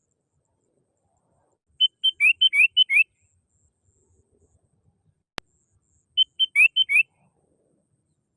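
Sooty-headed bulbul (kutilang) singing: two short, bubbly phrases of quick whistled notes, some steady and some sliding down in pitch, each lasting about a second and a few seconds apart. A single sharp click falls between the phrases.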